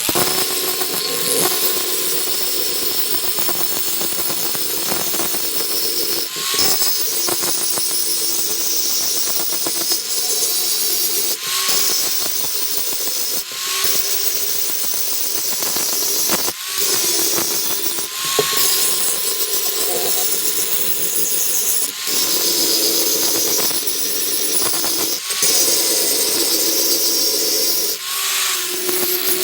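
Electric power tool running with a steady hum and hiss, broken by short dips every two to three seconds.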